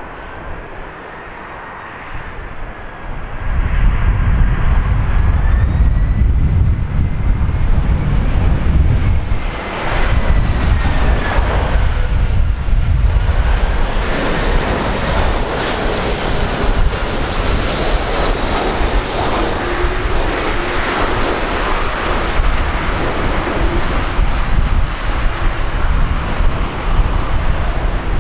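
Airbus A340 four-engine jet airliner on landing approach, passing low: engine whine slowly rising and falling in pitch over a heavy jet rumble that swells loud about three to four seconds in.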